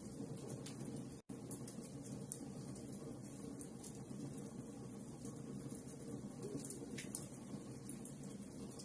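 Wood fire in a fireplace burning with a steady low hiss and scattered small crackles and pops. The sound cuts out for a split second a little over a second in.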